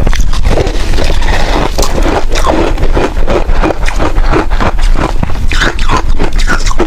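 Close-miked crunching and scraping of freezer frost ice being eaten: many quick, irregular crunches with a gritty hiss.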